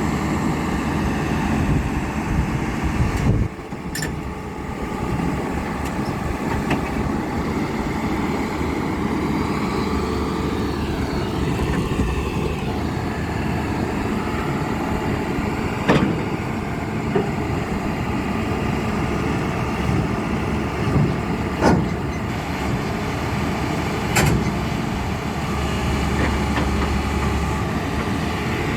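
Hyundai hydraulic excavator's diesel engine running steadily, with several sharp metallic knocks.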